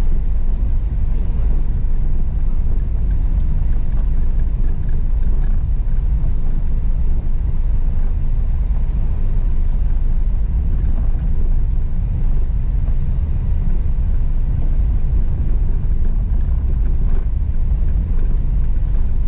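Car driving slowly over a rough, rocky dirt road: a steady low rumble of engine and tyres, with a few faint scattered clicks.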